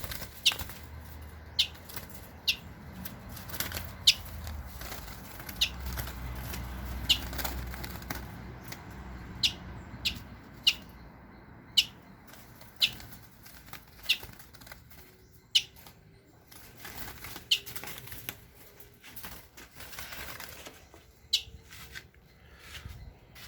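Trapped wild birds in a cage fluttering about, with a short, sharp chip roughly once a second.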